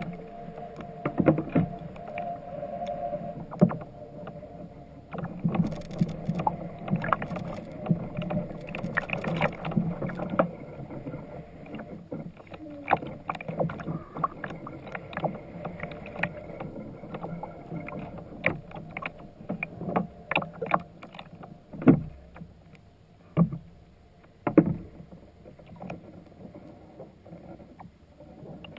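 A fishing kayak on the water: irregular knocks and splashes of paddle and gear against the hull, with water lapping.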